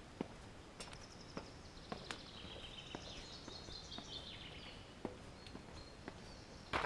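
A small songbird sings one phrase of quick, high notes that steps down in pitch for a few seconds, over a quiet forest background with scattered faint clicks.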